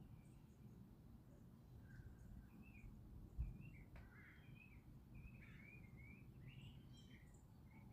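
Faint bird chirps and short warbling calls, coming every second or so, over a steady low rumble.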